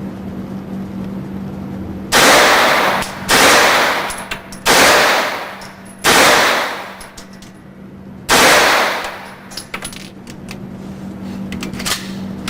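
Heckler & Koch MP5 9mm submachine gun firing five short bursts, each cut off sharply and echoing down an indoor range.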